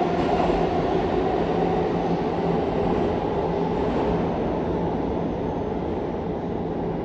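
New York City subway train running on the A line: a steady rumble with a low hum, slowly growing quieter.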